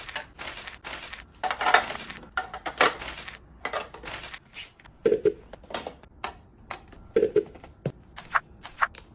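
Kitchen handling sounds of food being packed away: rustling and a quick run of light clicks and knocks from packaging and containers, with two short low pops about five and seven seconds in.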